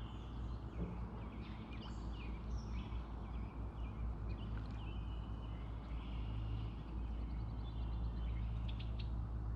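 Songbirds chirping and whistling, several short calls overlapping, with a quick trill about eight seconds in, over a steady low rumble.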